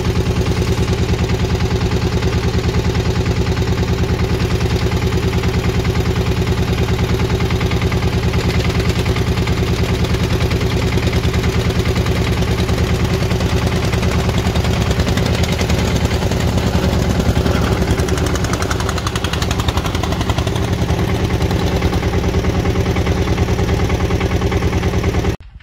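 Tractor engine idling steadily and evenly, close by. The sound cuts off abruptly near the end.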